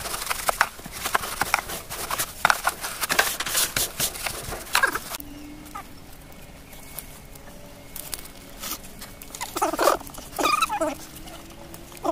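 Kangal puppies scuffling, with a rapid run of knocks and scrapes for about five seconds. A few short, sharp yelps come near the end.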